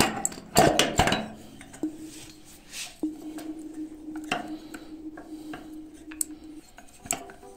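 Metallic clinks and knocks from an e-bike hub-motor wheel and its freewheel sprockets being handled, several loud ones in the first second and smaller scattered clicks later, over soft background music.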